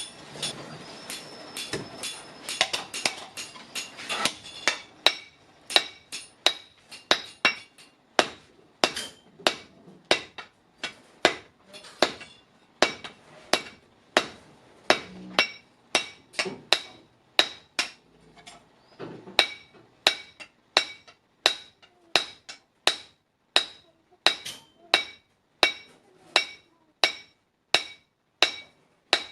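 Hand hammer striking hot leaf-spring steel on an anvil in steady blows, about two a second, each with a ringing metallic tone. A steady noise runs under the blows for the first few seconds.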